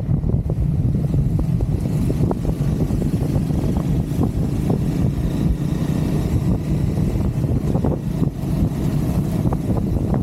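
Triumph Scrambler 400 X's single-cylinder engine running steadily as the motorcycle cruises, with a few faint ticks scattered through.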